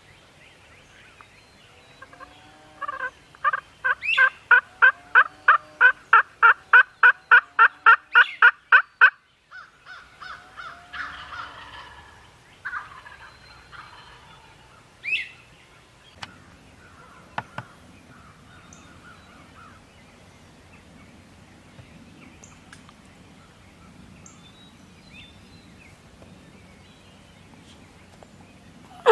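A long, evenly paced run of turkey yelps, about four notes a second for some six seconds, followed by a few looser, softer calls and one sharp note.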